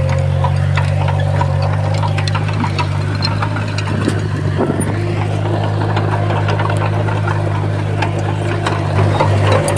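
Komatsu bulldozer's diesel engine running steadily under load, with a scatter of small clicks and clanks from the tracks and blade as it pushes soil.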